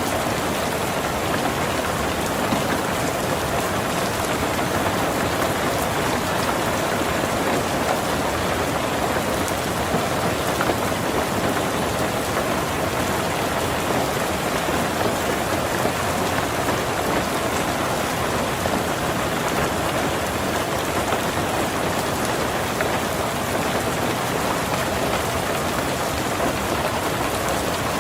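Heavy rain falling steadily on a tin roof, a dense even patter of drops.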